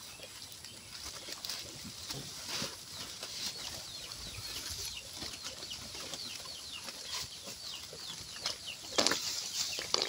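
Many short, high chirps from birds, repeating throughout, with a brief thump about nine seconds in.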